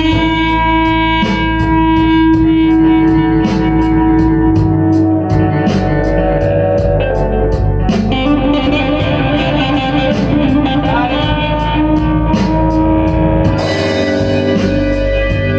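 Blues-rock band playing: electric guitar with long held and bending notes over bass and a drum kit keeping a steady beat on the cymbals.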